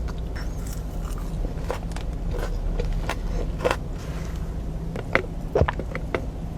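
Close-up eating sounds: a person biting and chewing crispy fried food from Raising Cane's, with scattered crackly clicks, over a steady low hum.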